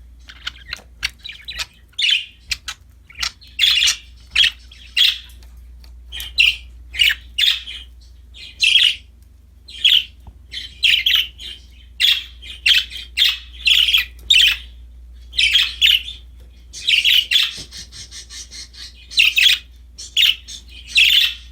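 Budgies (budgerigars) chirping and chattering, with many short, sharp chirps in quick clusters throughout and a faint low hum underneath.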